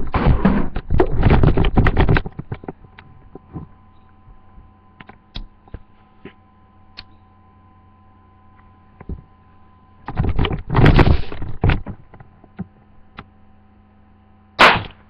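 A Black Hat 'Little Dynamite' firecracker going off with a single short, sharp pop about fourteen and a half seconds in. Before it there is a longer rough noise about ten seconds in, under a low steady hum.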